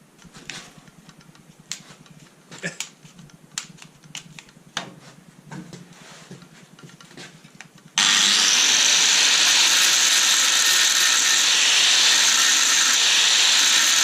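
Scattered light clicks and knocks, then about eight seconds in a power tool starts abruptly and runs loudly and steadily.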